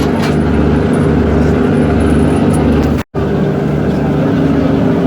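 Boat engine running steadily, with a brief cut-out about three seconds in.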